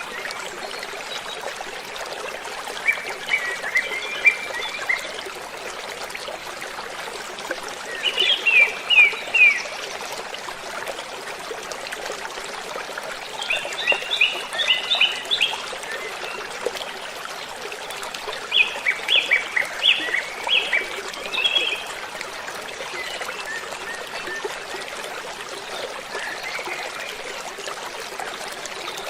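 Steady rush of falling water from a waterfall, with birds singing over it in short bursts of quick, high chirping notes, four clear bursts spaced through and a few fainter calls between.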